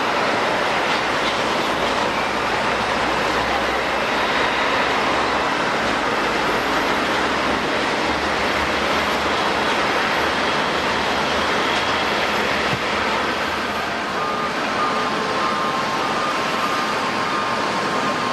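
Jet airliner engines running, a loud steady rushing noise. From about three-quarters of the way in, a few thin high tones sound over it.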